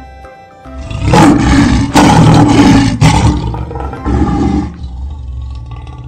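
Lion roaring: a recorded sound effect of loud roars beginning about a second in and dying away after about four seconds, over light background music.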